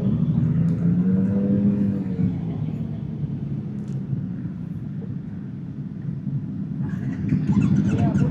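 Motorcycle engine running with a steady low hum; about a second in its pitch swells briefly and falls back. Voices start near the end.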